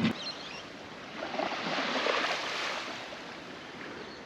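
Water sloshing and lapping around a small boat, swelling about a second in and easing off near three seconds.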